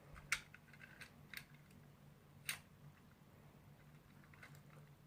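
A few faint, sharp plastic clicks and taps from small toy cars being handled, the three clearest about a second apart. A faint steady low hum runs underneath.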